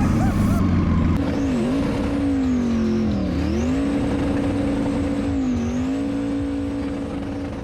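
Twin-turbo LS V8 engine of an E36 BMW drag car held at high revs, with its pitch dropping briefly and climbing back three times as the throttle is lifted and reapplied. A faint high whine rises and falls with the engine. The sound fades out near the end.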